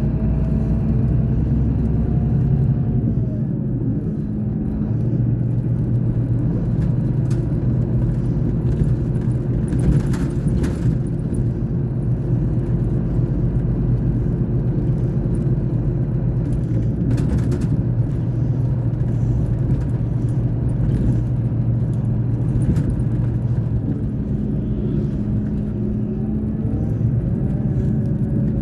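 Scania K420 bus's diesel engine running steadily, a continuous low drone that shifts slightly in pitch in the first few seconds and again near the end. Brief knocks or rattles come about ten and seventeen seconds in.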